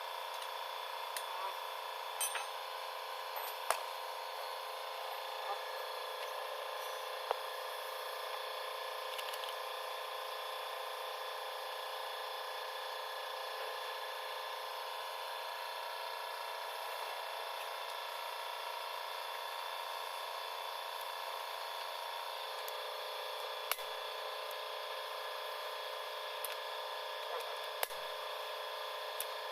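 Steady workshop hum with a few light, scattered clicks and taps of hand tools on the engine.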